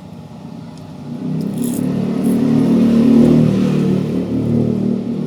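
Motor vehicle engine passing close by: a low engine hum that grows louder from about a second in, peaks in the middle, then starts to fade.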